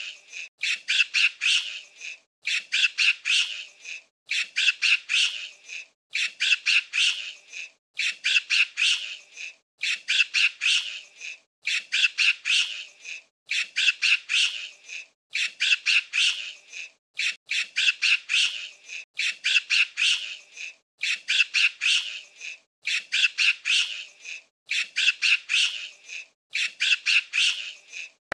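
High-pitched squawking animal chatter: bursts of several quick squawks, repeating evenly about every second and a half.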